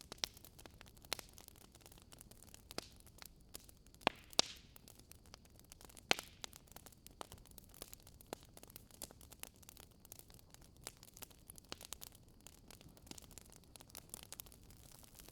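Wood burning in a fireplace, crackling: irregular sharp pops and snaps over a faint steady hiss, with a few louder pops in the first half.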